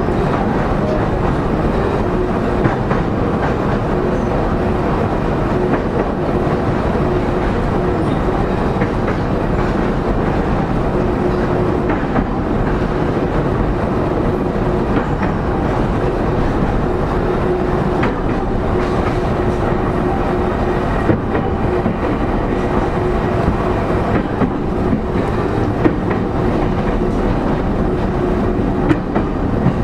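Interior running noise of a JR East E231-0 series electric commuter train heard inside a motor car: steady wheel and rail rumble with a steady hum and occasional rail-joint clicks as it runs at speed.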